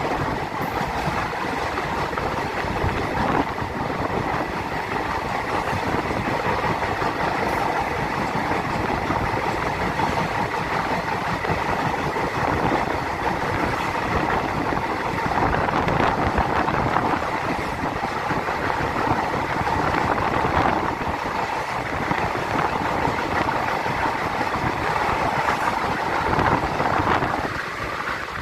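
Passenger train running, with a steady rumble and rail noise that holds even throughout.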